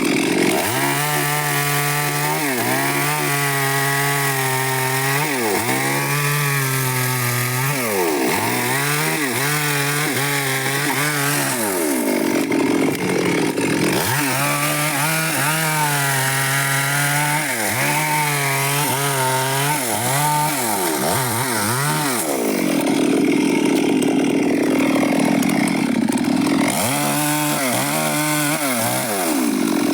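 Stihl chainsaw with a 24-inch bar cutting wood, its engine pitch repeatedly sagging under load and climbing back every couple of seconds.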